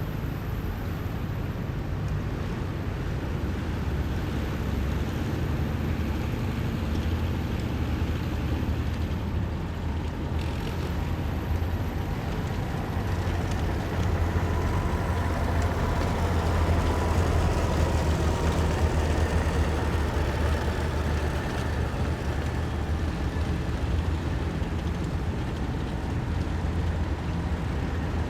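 Heavy military vehicles driving past in a column, their engines making a steady low drone that grows somewhat louder about halfway through.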